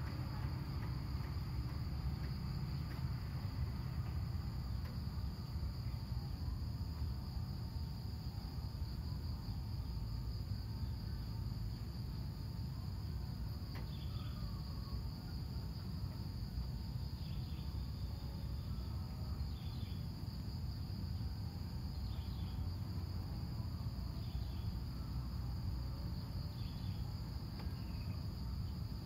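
Crickets trilling steadily at a high pitch over a low rumble, with short high calls repeating every second or two from about halfway.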